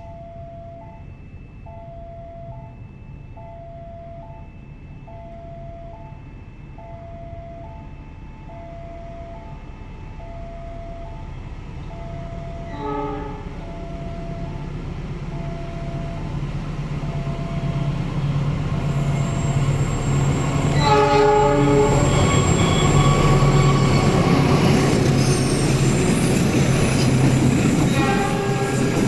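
A diesel-hauled passenger train approaching, its rumble growing steadily louder, with its horn sounding briefly about halfway through, then a longer blast, and once more near the end. A repeating electronic warning tone, about one ding every second and a half, runs through the first two-thirds and then is drowned out.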